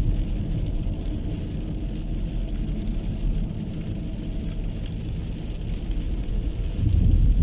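A rainstorm: rain falling with a steady low rumble that swells again near the end.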